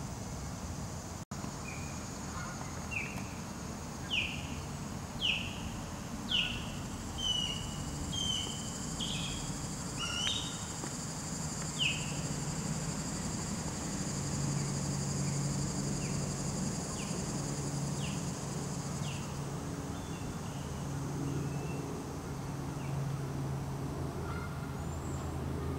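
A small songbird giving a series of short, downward-sliding chirps, about one a second, fading after about twelve seconds. Behind it run a steady high insect drone that stops about three-quarters of the way through and a low steady hum.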